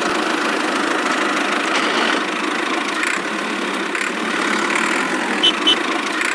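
Small engine running steadily at idle, with two short sharp clicks about five and a half seconds in.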